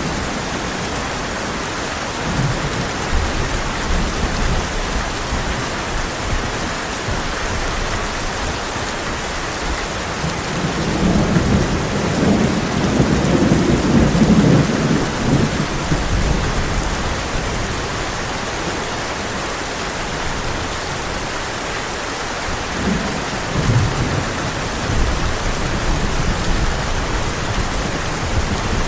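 Heavy rain pouring steadily on a tin roof, with a long roll of thunder swelling about ten seconds in and easing off a few seconds later, and a shorter low rumble of thunder near the end.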